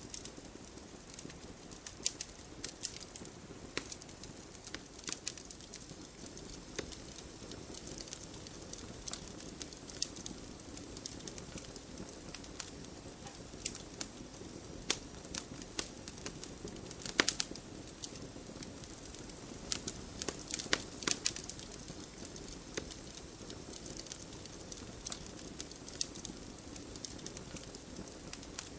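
Wood fire burning in a fireplace, with a steady low hiss and sharp irregular crackles and pops from the burning logs, a few louder snaps about halfway through and again a little later.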